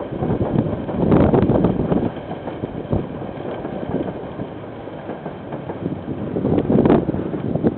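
KiwiRail train passing, its wheels rumbling and clattering on the rails, swelling louder about a second in and again near the end, with a few sharp knocks. Wind buffets the microphone throughout.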